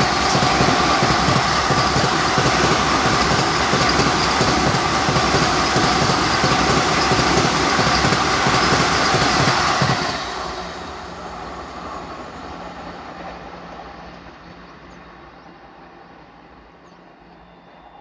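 Express train passing close by, its wheels clattering loudly over the rail joints until the last coach goes past about ten seconds in; the sound then dies away quickly.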